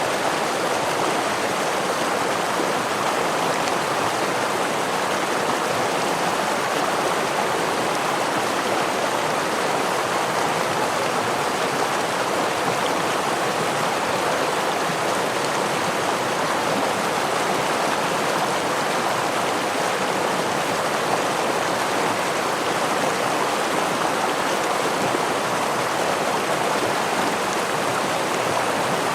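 Small river or stream rushing steadily over a waterfall, a constant even rush of water with no changes.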